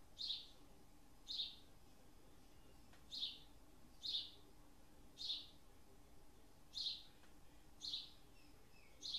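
A bird calling repeatedly: short chirps that sweep downward, about one a second, over a faint steady hum.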